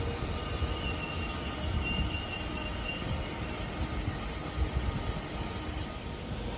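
JR Chuo Line electric commuter train running along the track at the station: a steady low rumble with a thin, high wheel squeal that steps higher in pitch about four seconds in.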